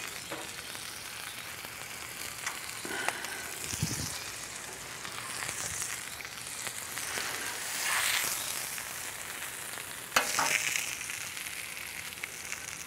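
Shredded hash-brown potatoes and a burger patty frying on a hot Blackstone flat-top griddle: a steady sizzling hiss. A few brief knocks and clacks sound over it, the loudest a sharp clack about ten seconds in.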